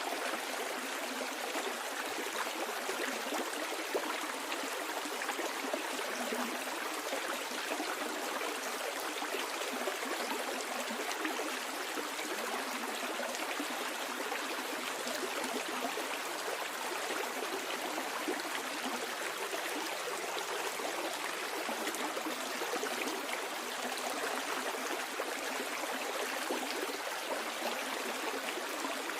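Stream water flowing steadily downstream, a continuous even babble and trickle.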